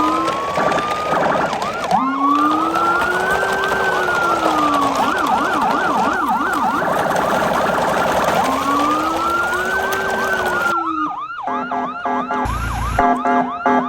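Emergency vehicle sirens: a slow wail rising and falling over a few seconds alternates with a fast yelp. Near the end the sound turns to a choppy, rapidly stepping electronic siren.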